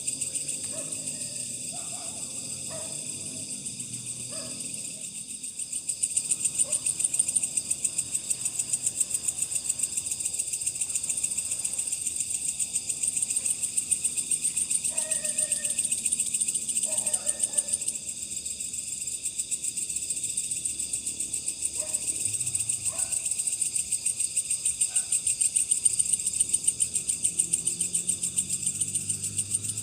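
A night insect chorus: a dense, steady, high-pitched trill pulsing rapidly. A few faint, short lower sounds come through in the middle.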